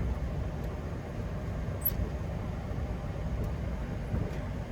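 Steady low rumble in a Boeing 737-800 cockpit as the airliner taxis after landing, with a few faint clicks.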